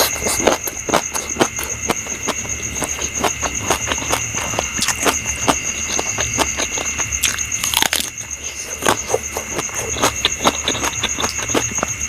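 Close-up mouth sounds of someone chewing food: a quick run of short wet clicks and smacks, several a second, with a steady high-pitched whine behind them.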